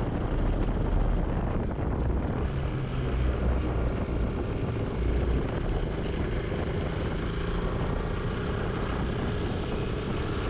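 Honda Twinstar 200cc's carbureted parallel-twin engine running steadily under way, heard with the rushing noise of riding.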